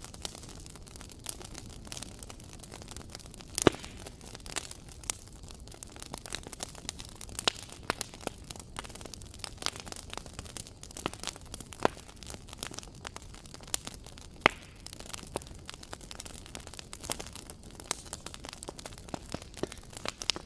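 Wood fire crackling in a fireplace: a steady low hiss of burning with frequent irregular sharp pops and snaps, the loudest about four seconds in and again near fourteen seconds.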